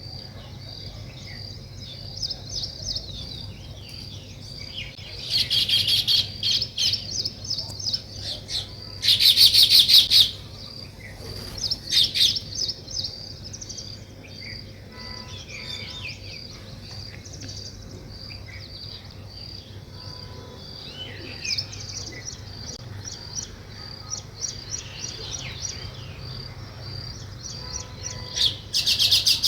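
Weaver birds chirping: a steady run of high chirps, about two a second, broken several times by louder bursts of fast chattering, the loudest about nine seconds in and another at the very end. A faint low hum lies underneath.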